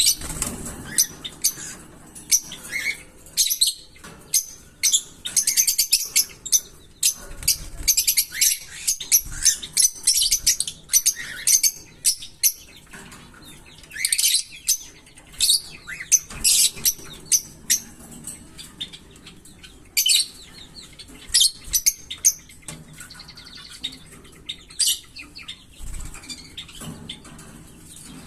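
Small pet parrots chirping and squeaking: many short, high calls in irregular clusters, with a few thinner stretches between them.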